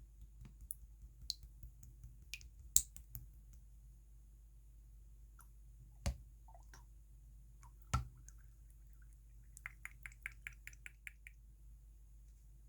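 Clear purple jelly slime being pressed and squished by hand, giving small sticky clicks and pops: scattered clicks, two louder snaps in the middle, then a quick run of about ten clicks near the end.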